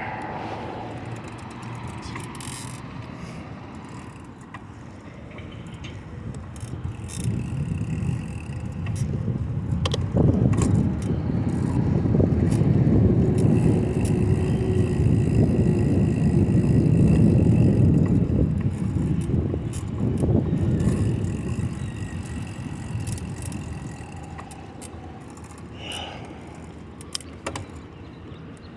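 Riding noise from a folding bicycle under way: a low rumble of wind and road noise that builds as the bike picks up speed, then eases off towards the end, with scattered clicks and rattles from the bike.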